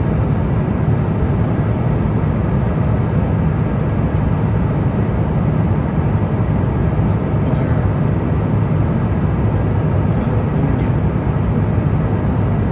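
Airplane engine and cabin noise heard from inside the aircraft: a steady, unbroken low drone.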